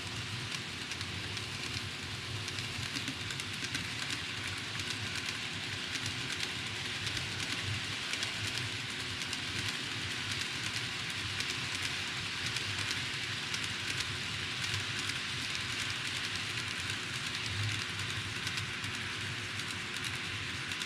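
Model railway train running steadily along its track: a continuous whirring hiss with many fine, rapid clicks from the wheels on the rails.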